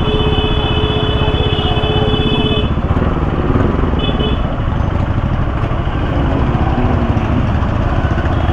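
Motorcycle riding in road traffic: steady engine and road noise, with a vehicle horn held for about two and a half seconds at the start and sounded again briefly about four seconds in.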